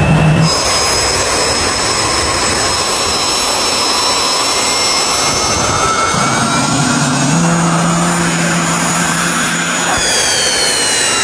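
Jet engine running: a loud, steady rushing noise with several high, thin whine tones that slide down in pitch near the end.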